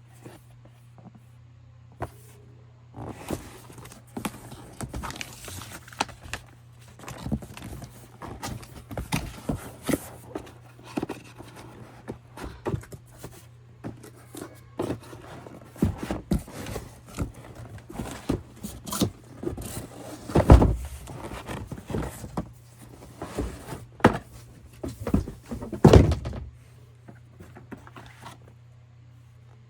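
Handling noise from unboxing a portable car cleaner: irregular knocks, taps and rustles of the box, packaging and parts, with two louder thumps in the latter part, over a faint steady low hum.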